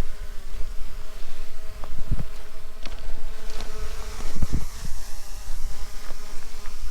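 Small quadcopter drone hovering overhead with a steady buzz that wavers slightly in pitch. Low rumble and a few short knocks lie underneath.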